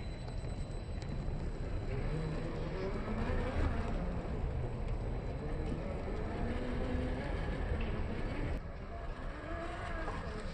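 1/8-scale YK4082 Pro RC rock crawler's electric motor and gearbox whining as it crawls, the pitch rising and falling with the throttle.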